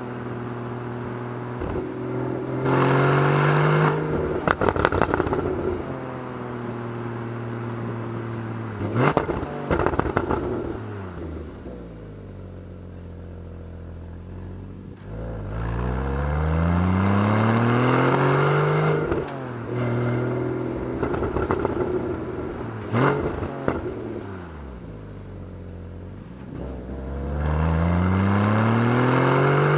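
Porsche 981 Boxster's flat-six engine pulling up through the revs three times, with the pitch falling as it slows in between, and a few short sharp clicks.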